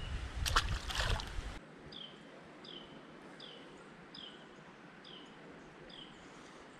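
A bird repeating a short two-part call, a brief high note dropping into a down-slurred whistle, about once every 0.8 seconds over faint outdoor background noise. It is preceded by a couple of brief knocks or splashes in the first second and a half.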